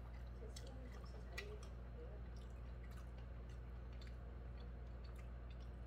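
Close-up chewing of a hamburger: soft wet mouth sounds and scattered small clicks, over a steady low hum.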